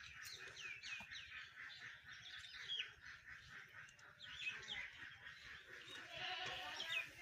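Small birds chirping in short, quick falling calls, over a steady high background noise.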